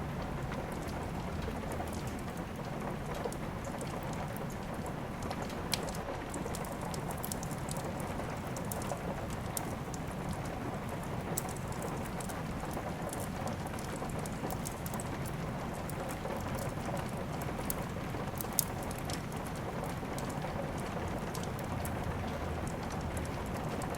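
Steady rain mixed with a crackling fireplace fire: an even hiss of rain, broken by scattered sharp pops, the loudest about three-quarters of the way through.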